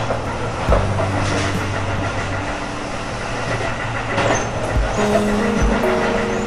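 Electric commuter train running along the track, heard from the driver's cab as a steady rumble, with background music of held low notes that change every second or two over it.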